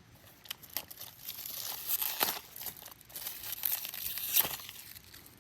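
Fireworks packaging wrapper being crinkled and torn open by hand, in short irregular crackles and rips.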